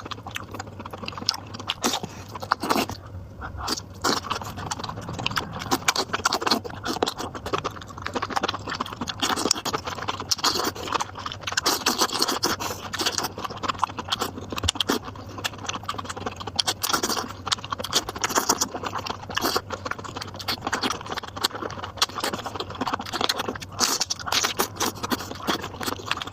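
Close-miked eating sounds of a person chewing and slurping spicy instant noodles and chicken, with a continuous stream of wet smacks and crisp clicks.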